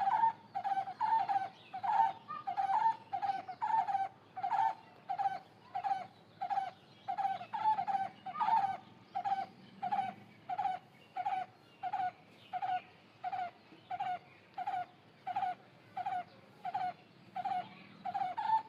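A bird calling over and over, one short call about every two-thirds of a second in a steady rhythm.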